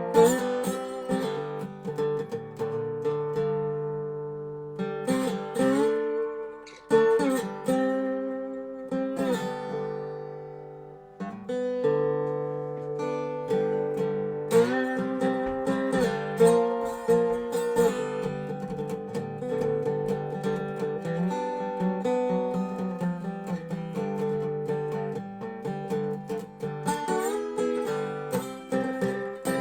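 A dobro resonator guitar played slide-style in a slow blues. Notes glide into pitch and ring on; about eleven seconds in, a long note dies away and the playing picks up again.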